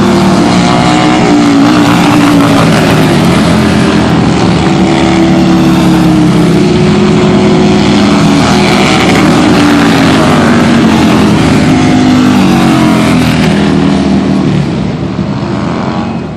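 Racing motorcycle engines at high revs, several at once, their pitch rising and falling with throttle and gear changes; the sound eases a little near the end.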